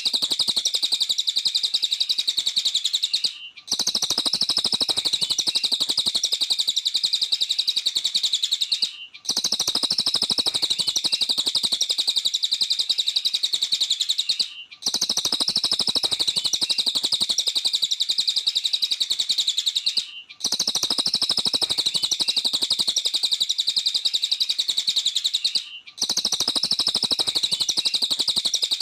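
A cililin songbird singing a rapid, unbroken stream of high chirps and trills. The song breaks off briefly about every five and a half seconds, then starts again.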